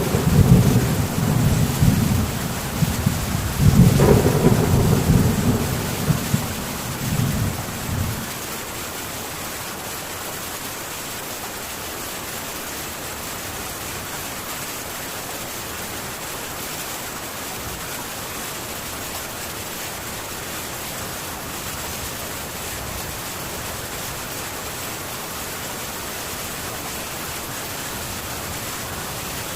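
Thunder rumbling over heavy rain on a metal tin roof. The rumble swells twice in the first few seconds and dies away after about eight seconds, leaving the steady hiss of rain on the roof.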